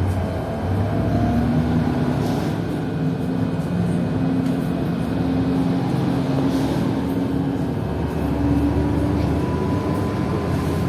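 PKTS-6281.01 "Admiral" trolleybus under way, heard from inside: steady running noise with a low hum and a thin whine that rises slowly in the second half.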